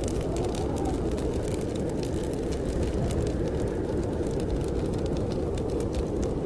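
Fierce blizzard wind blowing steadily outside the window, a deep rushing noise, while a wood fire crackles close by with many small quick pops.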